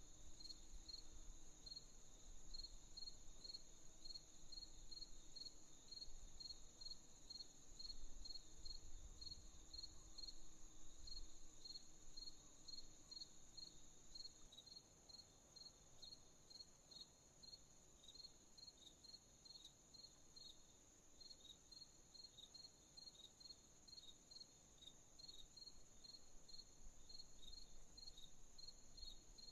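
Faint crickets chirping at night: evenly repeated chirps, about three a second, over a steady high-pitched insect trill, with a second chirping insect joining in about halfway through.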